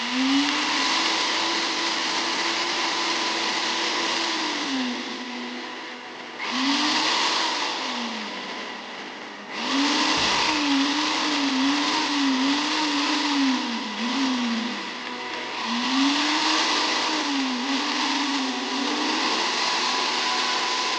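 Tefal BL811 blender motor run in bursts. It spins up and holds for a few seconds, runs briefly again, then is pulsed repeatedly, its pitch rising and falling with each pulse.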